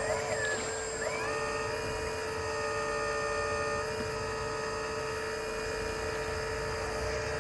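Electric hydraulic pump of a Lesu Doosan PC360 RC excavator whining steadily. About a second in, the pitch glides up and a higher, layered whine joins for about three seconds, as the machine works under the operator's control.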